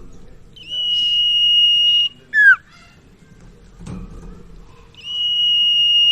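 Sirtu (cipaw) bird singing: a long, steady, high whistle of about a second and a half, ending in a short, sharply falling note. The phrase starts again about five seconds in.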